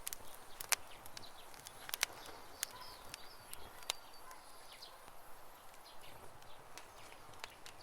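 Campfire crackling, with sharp irregular pops over a steady hiss, and birds chirping in the background.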